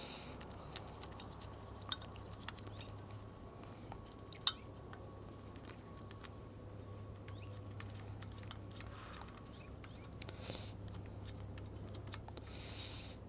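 Scattered faint plastic clicks and taps as a Planet Bike Beamer headlight and its handlebar mount are handled and fitted, with one sharper click about four and a half seconds in.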